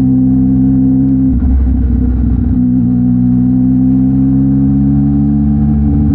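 Yamaha MT-09 SP's three-cylinder engine running through a Mivv X-M50 aftermarket exhaust while riding, a steady engine note. About a second and a half in the note breaks up into a low rumble for about a second, then returns and climbs slowly in pitch.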